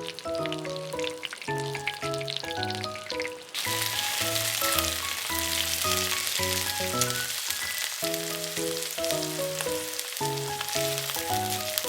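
Flour-and-egg-coated chicken frying in oil and butter in a miniature pan: a steady sizzle that swells sharply about three and a half seconds in.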